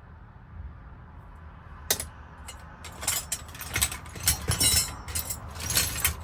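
Small metal tools and parts clinking and rattling as they are rummaged through, after a single sharp click about two seconds in.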